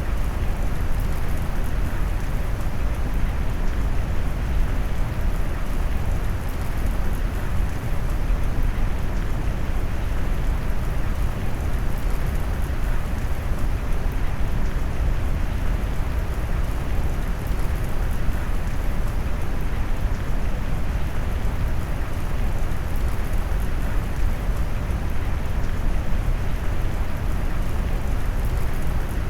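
Steady rain noise mixed with deep brown noise, a dense even hiss weighted toward the low end with no distinct drops or changes.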